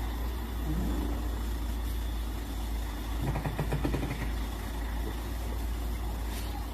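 Heavily loaded truck's engine running at low speed, a steady low rumble, with a cluster of brief louder sounds about halfway through.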